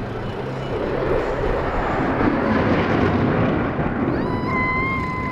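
Fighter jet flying past overhead: a rushing jet roar that swells to its loudest mid-way and then eases off. A high, steady held tone joins in about four seconds in.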